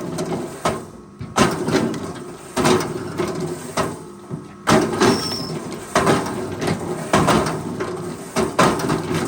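Forestry machine at work: irregular heavy knocks and clatters, several a second at times, over a steady engine hum.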